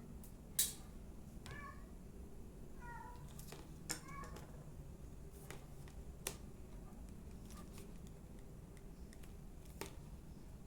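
Scattered sharp clicks and knocks from handling a hair dryer's casing and tools, the loudest just after the start. Short high cat mews sound several times in the background.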